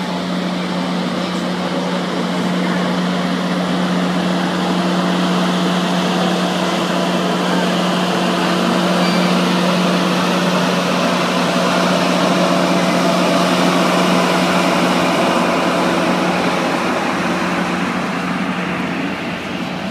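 Canadian Pacific Holiday Train rolling slowly past: a steady low hum over a wide rushing train noise that grows louder toward the middle and eases near the end.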